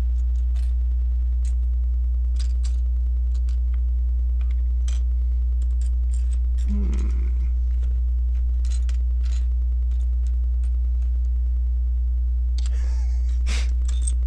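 Scattered light clicks and taps of plastic LEGO pieces being handled and pressed together, with a denser run of clicks near the end, over a steady low electrical hum.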